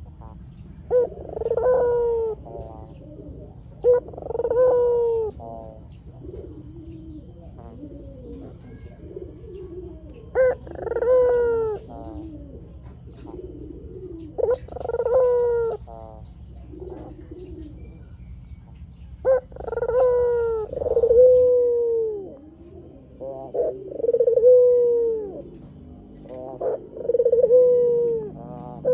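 A white Barbary dove (ringneck dove) cooing over and over. Each call is a short sharp note followed by a longer rolling coo, repeated every few seconds.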